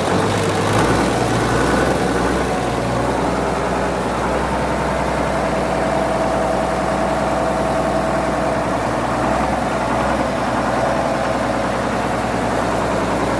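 TATA 1210 truck's six-cylinder Mercedes-derived diesel engine running at a steady idle just after starting, its pitch stepping up slightly about a second in.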